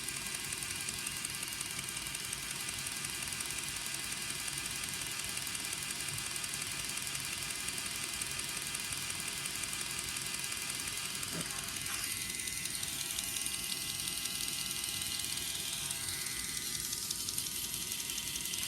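Lego Technic model engine running: plastic pistons, cams and gears clicking and rattling rapidly and steadily, with a steady whirr under it.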